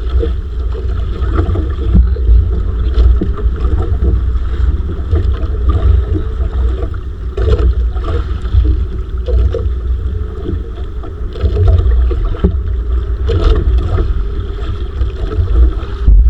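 Wind buffeting the microphone aboard a small fishing boat at sea, a heavy uneven rumble, with water noise and a few short knocks.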